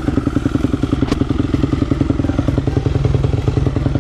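2007 Yamaha YZ250F's single-cylinder four-stroke engine idling steadily, with an even, rapid firing rhythm.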